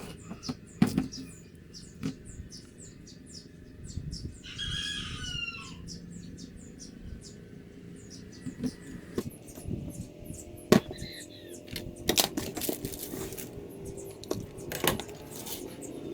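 Scattered clicks and knocks of handling, the sharpest about eleven seconds in, with a chicken's short falling call about four and a half seconds in.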